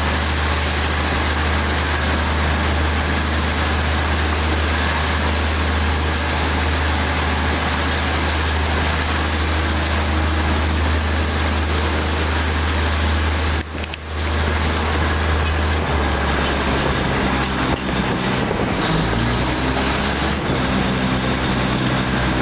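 Diesel train running, heard from an open carriage window: a steady low engine hum under a wash of running noise. A little past the middle the sound dips briefly, and soon after the engine note changes.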